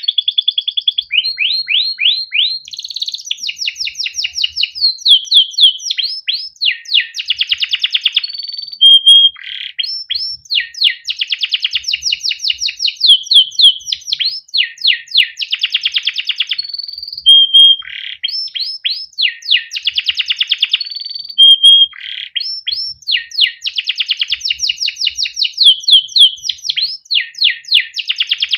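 Domestic canary singing a long, continuous song of fast chirps and rolling trills, with quick falling sweeps and short held notes, barely pausing.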